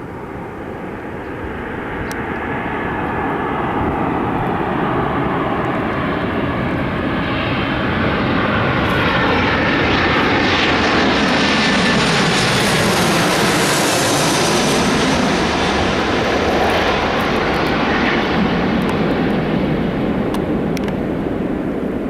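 Jet airliner flying past. Its engine noise builds over several seconds and holds loudest through the middle with a high whine, then eases slowly away.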